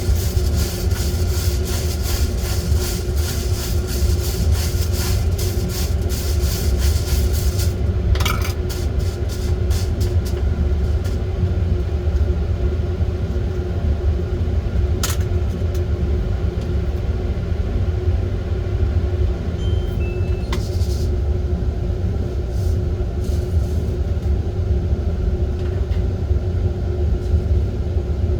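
Coffee beans rattling as they are stirred, a fast continuous clatter for the first eight seconds or so, then only a few scattered single clicks. Under it runs a steady low motor hum.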